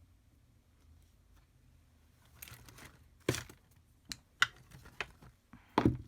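Papercrafting supplies handled on a desk: a short rustle of paper, then a series of sharp taps and knocks, the loudest about three seconds in and a double knock near the end.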